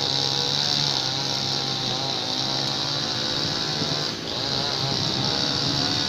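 Two-stroke chainsaw running and cutting through a fallen tree, its pitch rising and falling with the load. The sound dips briefly a little past four seconds in.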